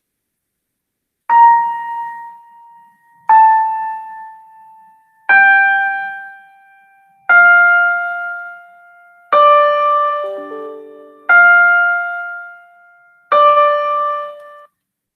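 A slow, computer-made tune in Soundtrap: seven single struck keyboard notes with a bell-like ring, about two seconds apart, each fading away. The notes step down in pitch and then waver between two low notes, with a few short lower notes slipped in near the middle. It starts after about a second of silence.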